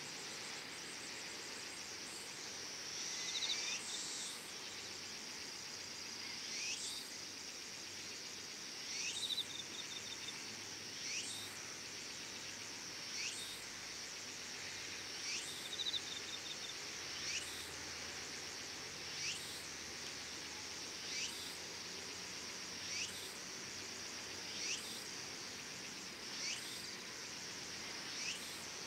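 Evening chorus of crickets and other insects: a steady high-pitched trill, a rising chirp repeated about every two seconds, and a short buzzing note every few seconds.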